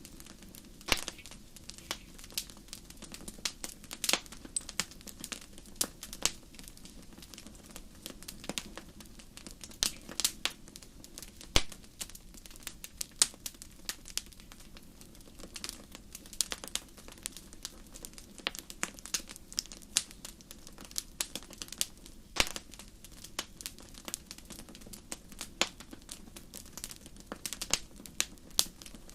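Wood fire burning in a fireplace: irregular sharp crackles and pops over a faint steady low rush of the flames.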